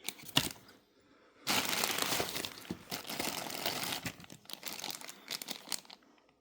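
Packaging crinkling and rustling as pyrotechnic items are handled, with a few sharp clicks first and then a stretch of dense crackling that starts about a second and a half in and dies away near the end.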